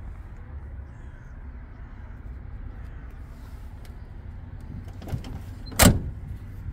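MAN 32.414 truck's diesel engine idling with a steady low rumble. A small knock about five seconds in is followed by a loud, sharp knock near the end.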